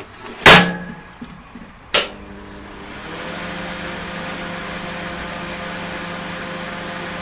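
A loud thump, then a click about two seconds in as a hot-wired microwave oven switches on. It then hums steadily: the magnetron, cooling fan and turntable motor running, the hum swelling over about a second and then holding.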